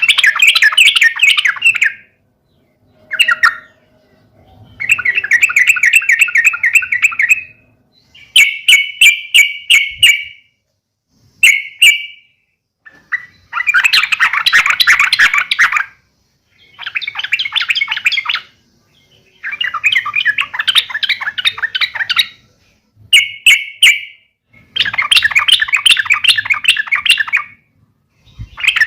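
Yellow-vented bulbuls (trucukan) giving excited fighting calls: loud bursts of fast, chattering notes about two seconds long, broken by short pauses, some phrases coming as strings of sharp separate notes.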